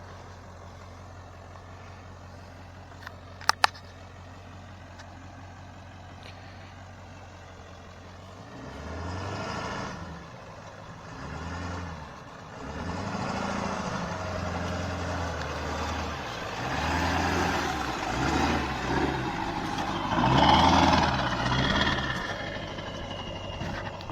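Pickup truck engine idling steadily off-road, with two sharp clicks a few seconds in. Then, as the truck works up a rough trail, it revs up and falls back again and again.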